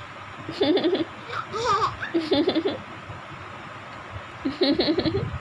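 Laughter in short bursts of chopped 'ha-ha' pulses: three bursts, with a higher, rising squeal between the first and second.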